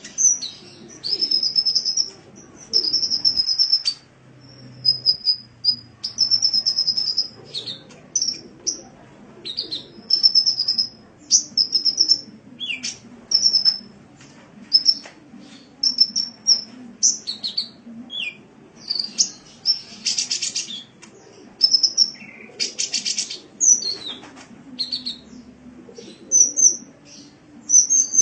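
Sunbird (the bird Indonesian keepers call 'kolibri') singing in a rapid series of high-pitched chirps and short trills, with buzzy rattling notes about twenty and twenty-three seconds in. A faint steady low hum runs underneath.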